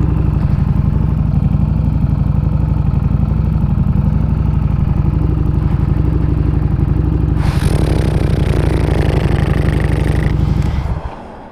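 Harley-Davidson Street Rod 750 V-twin engine running steadily at a constant pitch, joined by a hiss for a few seconds in the second half. The engine cuts off just before the end.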